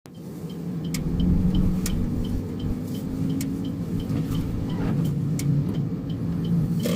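Suzuki Solio Bandit on the move, heard from inside: a steady low road and engine rumble with a faint hum, and a small high pip repeating about three times a second.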